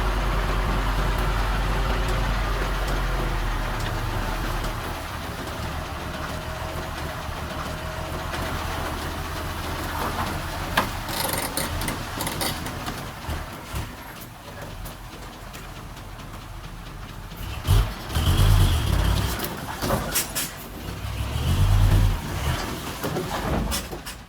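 Diesel engine of heavy earthmoving machinery running, louder for the first few seconds and then easing off. Scattered clicks and knocks follow, then several heavy low thumps a few seconds from the end.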